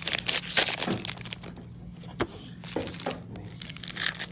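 Crinkling of foil trading-card pack wrappers being handled and torn, in quick bursts through the first second and again near the end.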